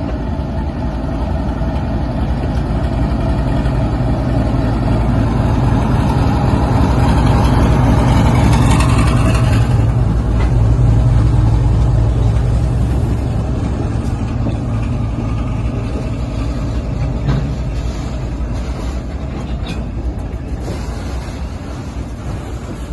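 Diesel freight locomotive passing: a deep engine rumble that grows to its loudest about halfway, then slowly fades as the train rolls on, with a few sharp clicks in the later part.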